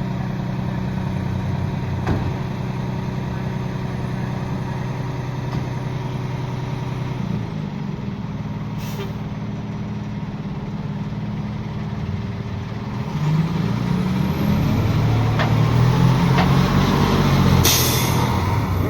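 International Harvester fire engine running at idle with a steady engine note, then growing louder from about two-thirds through as it pulls away. A short hiss of air brakes being released comes near the end.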